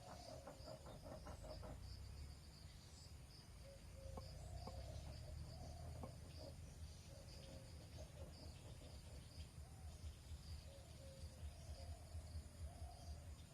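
Faint crickets chirping in an even, repeating rhythm over a low background rumble, with a few soft clicks.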